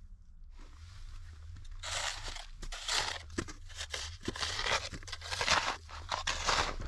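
Snow crunching and scraping in irregular strokes, louder from about two seconds in.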